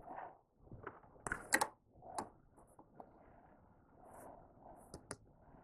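Faint handling sounds: soft fabric rustles and a few light clicks from the quilt and plastic quilting ruler being shifted into place. The sewing machine is not running.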